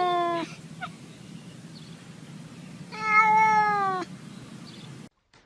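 Domestic cat giving two long, drawn-out meows of steady pitch: one trailing off about half a second in, and another lasting about a second starting around three seconds in, over a faint steady low hum.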